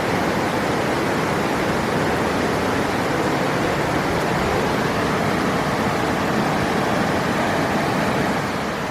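River water rushing in a steady, full wash of noise that eases slightly near the end.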